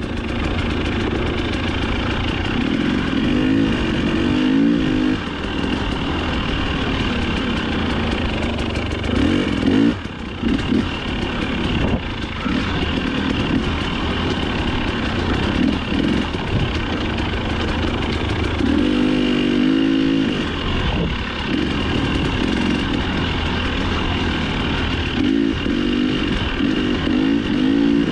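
Off-road dirt bike engine revving up and down as the bike is raced along a trail, with its pitch climbing under throttle and dropping off briefly several times as the throttle is chopped.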